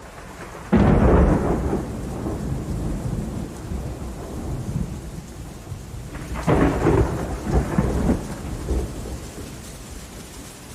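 Thunder during a summer rainstorm: a sudden clap about a second in that rolls away, then a second rumbling peal around six seconds in. Steady rain runs underneath.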